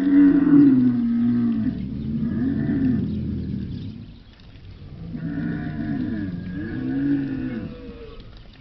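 Camel calling: two long, low calls whose pitch wavers up and down, the first starting abruptly and the loudest, the second following after a short break about four seconds in.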